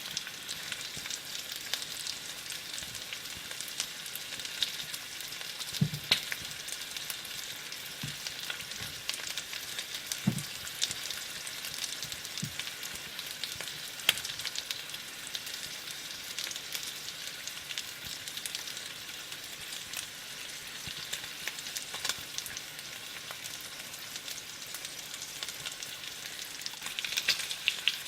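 Chicken thighs frying in oil in a pan: a steady sizzle with many small crackles and pops, and a few soft low thumps in the first half.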